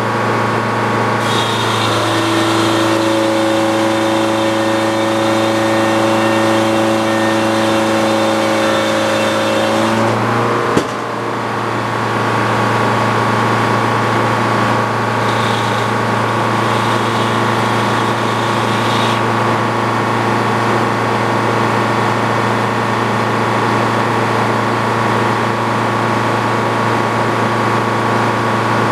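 Antique Frick sawmill machinery running with a steady drone. An extra pitched hum joins from about two seconds in to about ten, and a single sharp knock comes just before eleven seconds.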